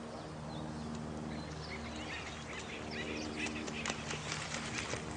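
Nature soundscape: a steady background of running water with a low hum beneath it, and a flurry of short, high bird calls and chirps with a few sharp clicks building up from about halfway through.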